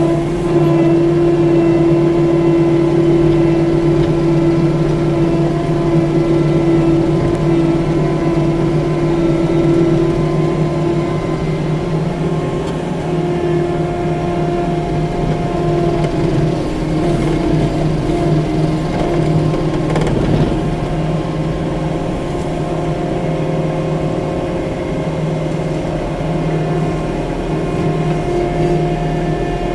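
Diesel engine of a 6-ton compact track loader (skid steer) running steadily at working speed, its pitch wavering slightly around the middle, with a brief knock about twenty seconds in.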